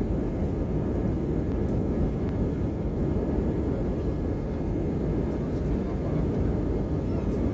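Steady engine and airflow noise heard inside an airliner's cabin, a deep, even rush.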